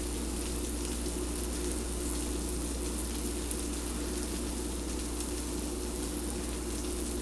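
Steady sizzle of food frying in a pan, with faint scattered crackles over a low steady hum.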